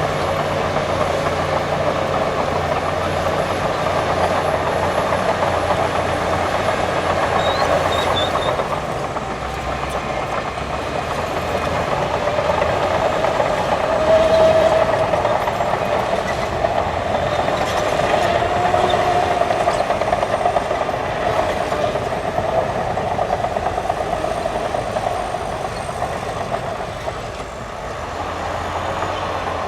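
Diesel bulldozer running steadily at work. A whine swells and fades twice around the middle.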